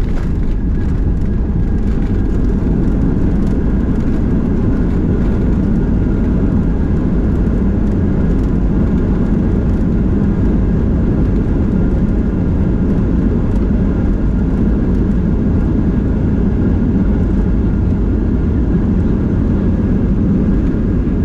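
Jet airliner just after touchdown on the landing roll: a loud, steady low rumble of engines and runway noise.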